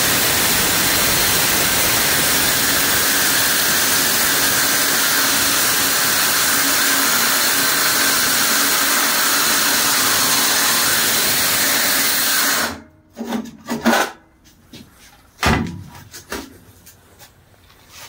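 Drill Master saw with a metal-cutting blade, its teeth wrecked from being mounted backwards, running and slowly cutting through half-inch steel plate. The saw stops abruptly about two-thirds of the way in, followed by a few knocks.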